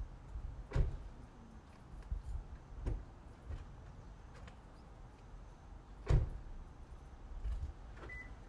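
Two dull knocks, about a second in and about six seconds in, with a few lighter ticks over a faint low rumble.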